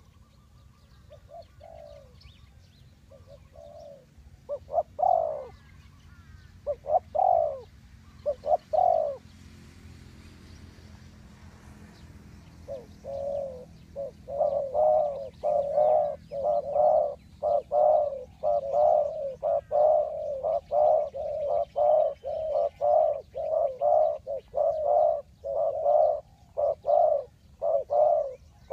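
Spotted dove cooing: a few scattered coos in the first nine seconds, a pause, then from about halfway a steady run of coos roughly one a second.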